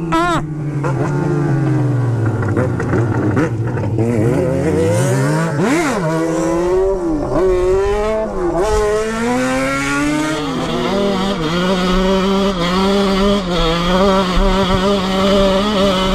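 Motorcycle engine heard from the rider's position: the revs drop over the first few seconds, climb again about five seconds in, then hold fairly steady at speed.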